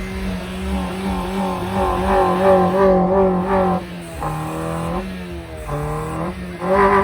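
Car engine revving: held at a steady high pitch for the first few seconds, then blipped several times with the pitch rising and falling, and louder again near the end.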